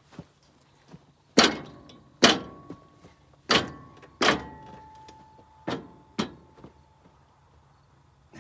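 Six sharp metallic knocks in three pairs, some leaving a brief ringing tone.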